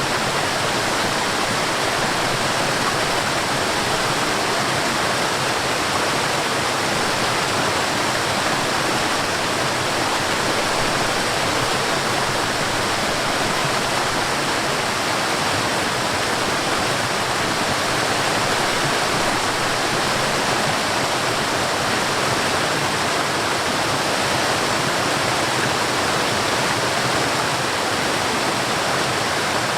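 Forest waterfall rushing, a steady, even hiss of falling water with no changes.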